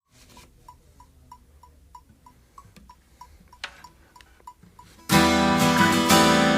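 Faint, evenly spaced ticking, about three a second, then about five seconds in a loud acoustic guitar strum rings out, opening the song.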